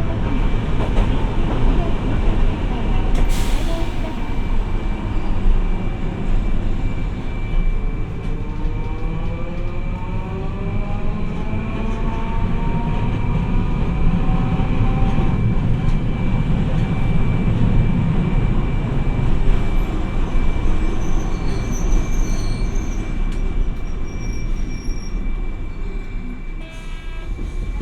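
Hiroden 700-series tram running along the track, heard from inside the car: a steady low rumble from wheels and running gear. From about eight seconds in, a motor whine rises in pitch for several seconds as the tram picks up speed.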